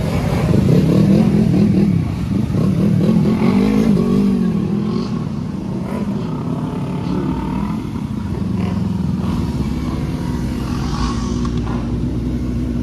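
Sport motorcycle engines running with the throttle blipped, the engine note rising and falling over the first few seconds, then settling to a steadier running sound.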